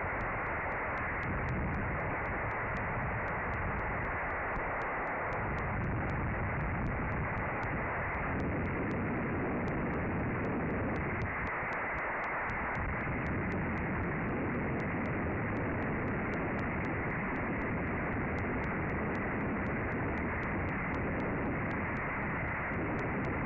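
Strong wind buffeting the nest camera's microphone: a steady rushing noise with a gusty low rumble that eases briefly twice.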